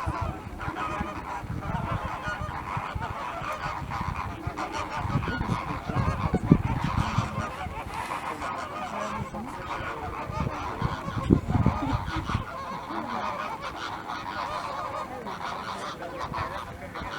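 A flock of Caribbean flamingos honking and gabbling together in a continuous, goose-like chatter of many overlapping calls. A low rumble runs underneath and swells twice, in the middle and about two-thirds through.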